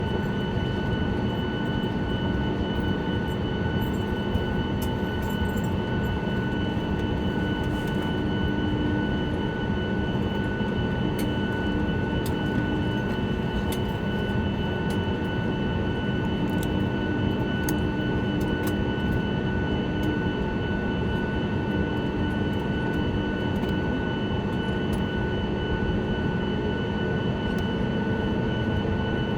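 Steady cabin noise inside a Boeing 737-9 MAX: a constant dense hum with a steady high-pitched whine on top.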